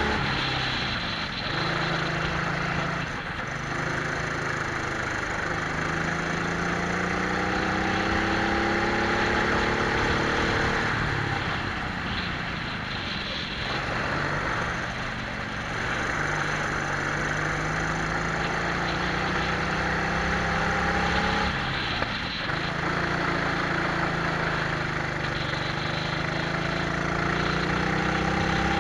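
Twin-engine Prokart racing kart running at speed from onboard: the engines climb steadily in pitch along the straights and drop off sharply several times as the throttle is lifted for corners, over a steady rushing hiss.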